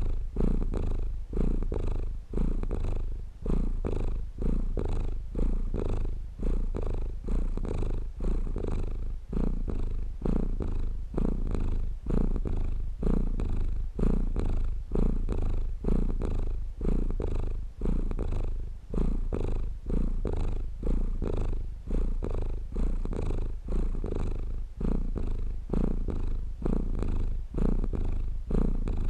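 Domestic cat purring close up, a continuous low rumble that swells and dips with each breath about once a second.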